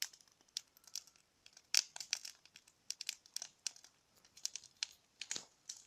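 Wood bonfire crackling, with irregular sharp pops and snaps, a few louder ones about two and five seconds in.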